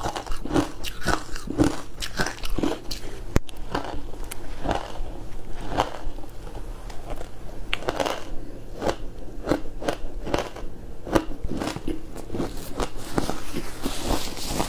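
Close-miked bites and chewing of hard frozen food, a fast run of crunches and crackles, several a second, with one sharp crack about three and a half seconds in.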